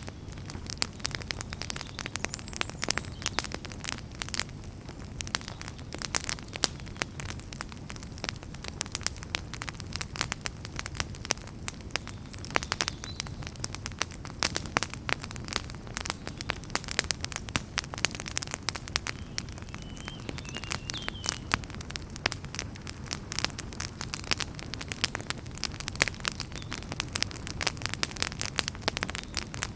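Wood campfire burning and crackling: a dense, irregular stream of sharp pops and snaps from the burning firewood over a steady low rumble of the flames.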